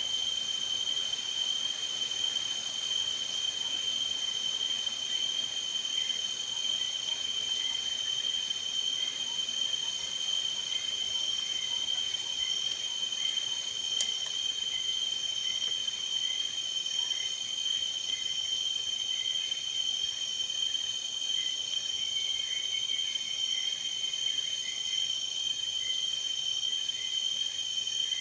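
Forest insect chorus: a steady high-pitched trilling with softer repeating chirps beneath it. A single sharp click comes about halfway through.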